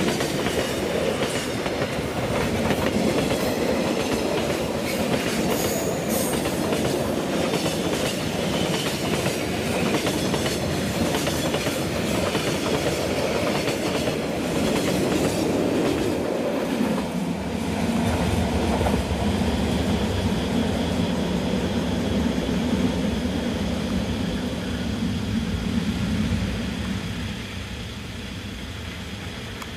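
Freight wagons rolling past close by, wheels clattering over the rail joints with some squeal. About halfway through, this gives way to the steady low drone of a diesel locomotive hauling a freight train, which fades a little near the end.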